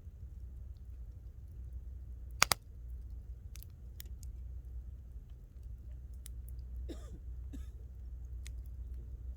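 Wood campfire crackling: one loud sharp pop about two and a half seconds in, then scattered smaller snaps and clicks, over a low steady rumble.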